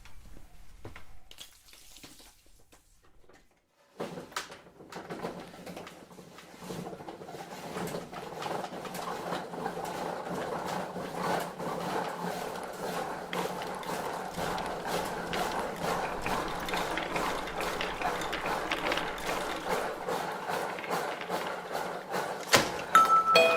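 Rapid clicking and rustling of an aari hook needle punching through fabric, starting about four seconds in after a few faint ticks.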